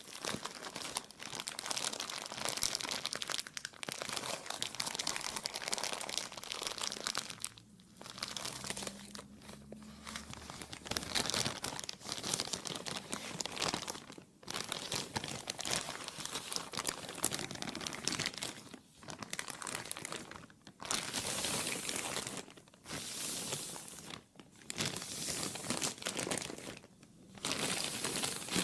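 Plastic crinkling and crumpling in a dense, continuous crackle, broken by brief pauses several times.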